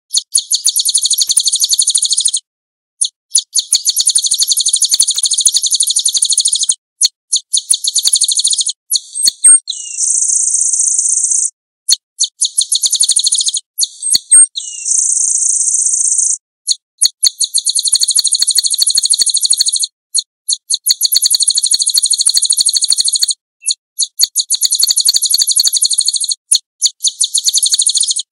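Small cage-bird song from a white-eye (pleci) tutor recording: very fast, high trills in runs of a few seconds with short breaks, twice giving way to a steady high buzz.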